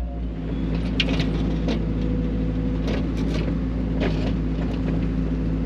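Mini excavator's diesel engine running steadily under load while digging, with a few sharp knocks and scrapes scattered through.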